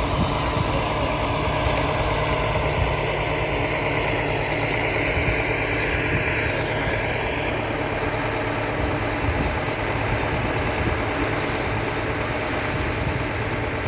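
Cog railway locomotive engine running steadily at idle, a low even hum under a constant noise.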